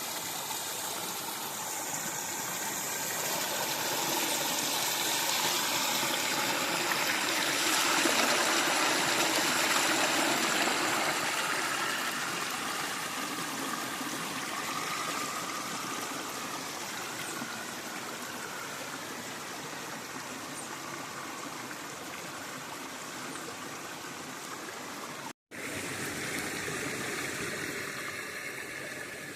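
River water flowing steadily, swelling louder about a third of the way in, then easing. The sound cuts out for an instant near the end.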